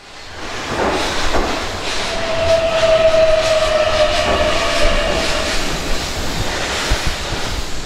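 Keihan electric train running at the platform of an underground station, its wheels clicking over rail joints, with the echo of the tunnel. It grows louder over the first few seconds, and a steady high whine sounds from about two seconds in to past the middle.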